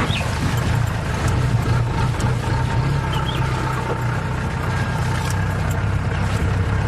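Safari vehicle's engine running steadily with a low hum.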